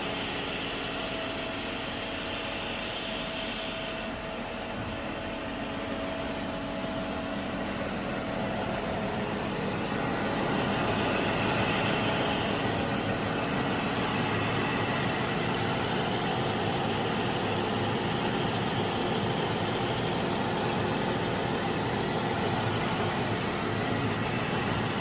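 Jeep Wrangler's 3.6 Pentastar V6 engine running steadily, growing louder about ten seconds in.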